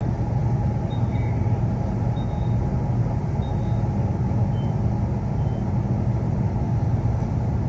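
Steady low rumble of a Queensland Rail NGR electric multiple-unit train, heard from inside the carriage, with a few faint short high-pitched chirps.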